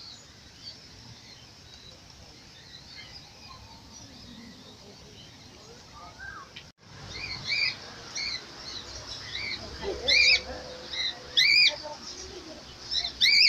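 Captive birds calling: faint high chirps at first. After a brief cut about seven seconds in come louder, short arching calls, repeated about once a second.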